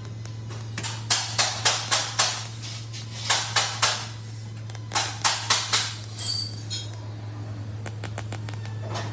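Hammer tapping on metal in three quick groups of four or five strikes, with a brief metallic ring about six seconds in, over a steady low hum.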